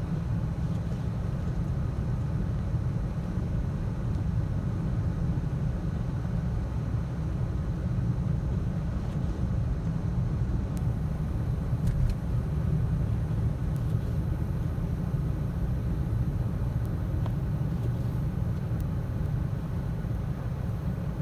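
Steady low rumble inside a car's cabin while it is driven on a snow-covered highway: the noise of its Michelin CrossClimate 2 tyres on the road, mixed with the engine.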